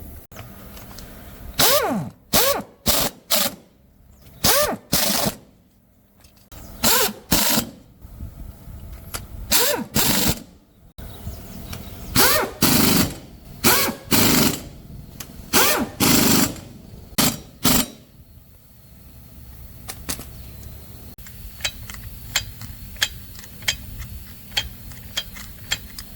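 A power tool run in about fifteen short bursts, each with a pitch that rises and falls as the motor spins up and down. Then a series of sharp metal clicks and taps.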